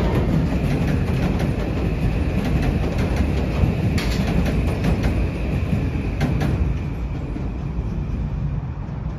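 Metro-North M8 electric commuter train rolling past, with steady rumble and a faint high whine. Its wheels click sharply over rail joints several times around the middle, and the sound fades as the last car moves away.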